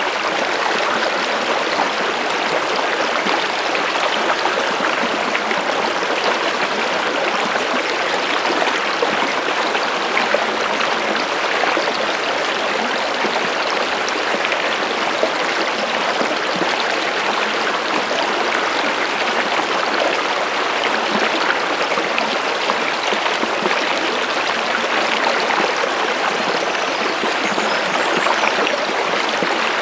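Stream of water flowing and trickling steadily, an even rushing babble with no change.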